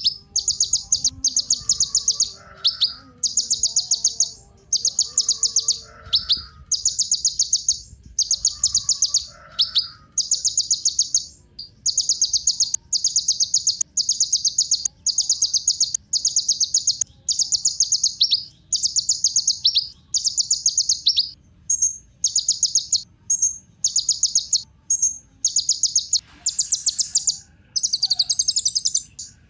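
Kolibri ninja, a sunbird, singing energetically: a long run of fast, high, rattling trills, each under a second long, about one a second. Near the end the phrases become fuller and higher.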